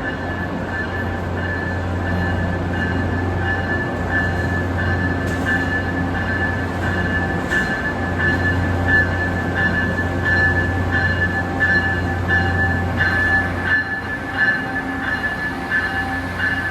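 A train running, with a steady low hum and a steady high tone that turns into a repeating pulse about halfway through.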